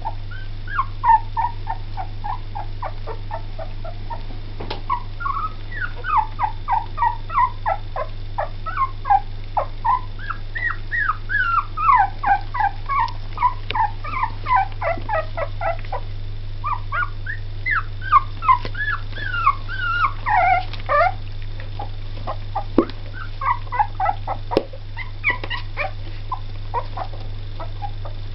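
Two-week-old Jack Russell–Yorkshire Terrier cross puppies whimpering and squeaking: many short, high-pitched cries in quick runs, over a steady low hum.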